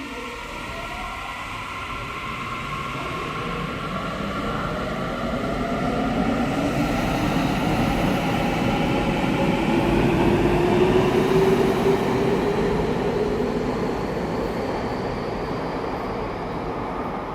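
Electric train accelerating: the traction motors whine in several tones that rise steadily in pitch over rumbling wheel and running noise, growing louder to a peak past the middle and then easing slightly.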